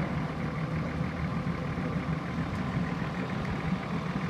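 Off-road SUV engine idling steadily, a low even hum that does not change.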